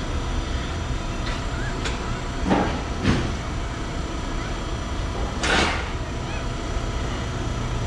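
Exhaust repair work on a car: a few sharp metallic knocks and clunks, then a short hiss about halfway through, over a steady low rumble.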